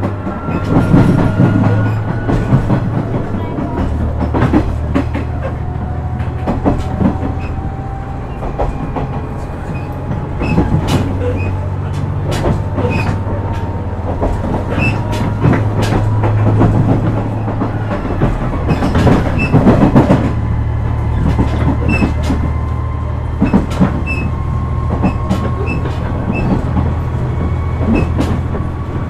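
JR West KiHa 126 series diesel railcar under way: its diesel engine drones steadily while a whine rises slowly in pitch as the railcar gathers speed, and the wheels clack sharply over rail joints again and again.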